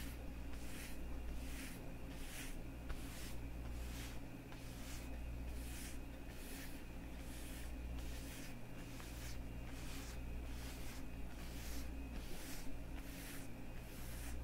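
Leather gloves on the hands being rubbed together in a steady rhythm of soft, hissy strokes, about two a second.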